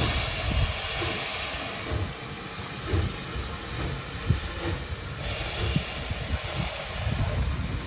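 Steam locomotive hissing off steam over a low rumble; the louder part of the hiss stops about five seconds in.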